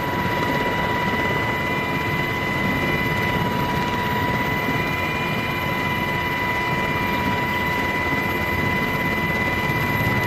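Steady aircraft engine noise: a constant rush with a high, steady whine running through it.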